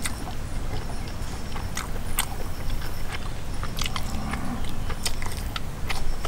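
Close-up eating sounds of a man chewing and biting meat off a barbecued pork rib: irregular lip smacks and sharp mouth clicks over a steady low rumble.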